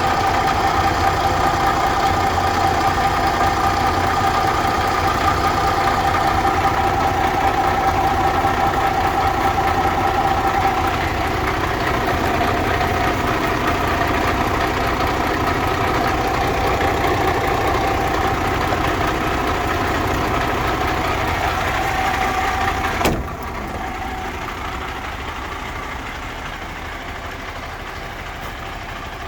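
MAN TGS 41.440 tipper truck's six-cylinder diesel engine idling steadily, with a steady high whine running over it. About three quarters of the way through, a sharp click is heard and the sound drops to a quieter, steady idle.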